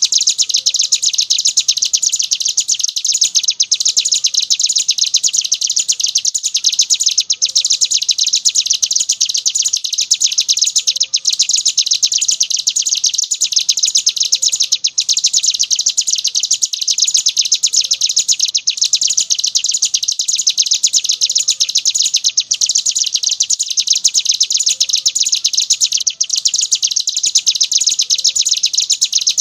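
Ciblek gunung (mountain prinia) singing in a fast, unbroken high-pitched trill, the rolling 'ngebren' song. Brief breaks come about every four seconds.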